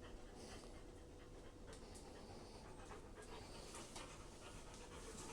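A dog panting faintly, in soft breaths that come every second or so.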